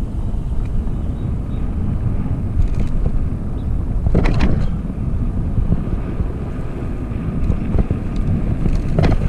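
Wind buffeting the microphone over the rumble of an e-bike's fat tyres riding a dirt trail, with scattered knocks and rattles from the bike. A sharper clatter comes about four seconds in and again near the end.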